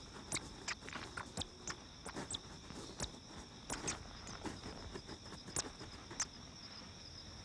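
Insects trilling in a steady high drone, with scattered small scratches and taps from mice scurrying over sandy ground.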